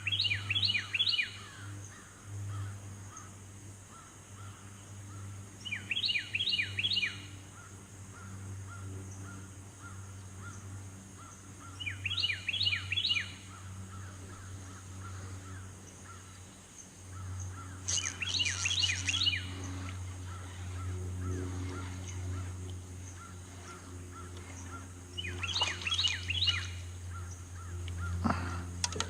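A crow cawing in short series of three or four harsh caws, repeated five times about six seconds apart, over a steady low hum.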